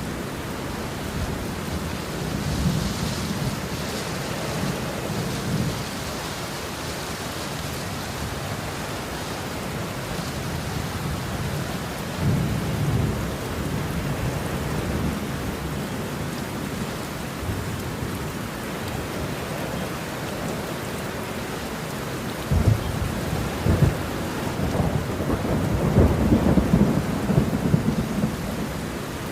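Steady rain with rolling thunder from a thunderstorm. The thunder rumbles low several times, with a couple of sharp cracks a little after the middle and a longer, louder roll near the end.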